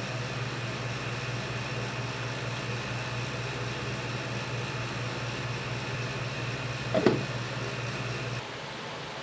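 A steady low machine hum, like an appliance motor running, with a short knock about seven seconds in; the hum stops shortly before the end, leaving a quieter hiss.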